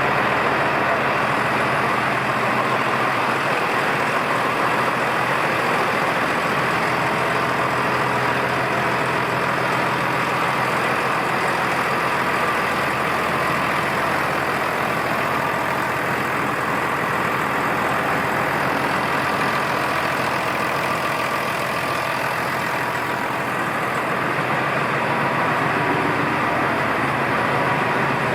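Massey Ferguson 6455 tractor's four-cylinder diesel engine idling steadily at an even level.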